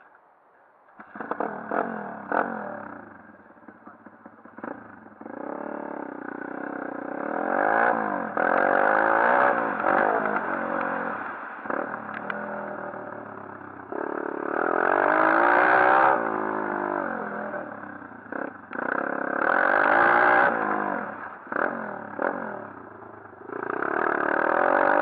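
140cc pit bike's single-cylinder four-stroke engine running and revving up and down in repeated bursts as the throttle is opened and closed. It comes in about a second in and is loudest near the end.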